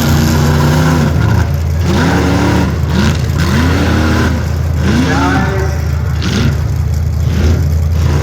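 Rough-truck race engine revving up and letting off again and again, a rise and fall in pitch about once a second, over a steady low drone.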